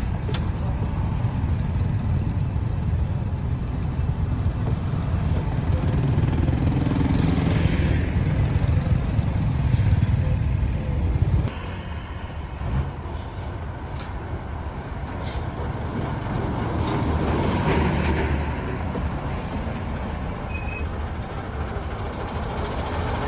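Road traffic noise with a heavy, low engine rumble from vehicles such as trucks. The rumble drops off suddenly about halfway through, leaving quieter traffic that swells and fades as vehicles pass.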